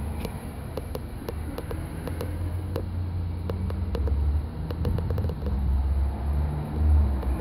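Car engine running with a low rumble that grows louder as the vehicle approaches, with scattered light clicks over it.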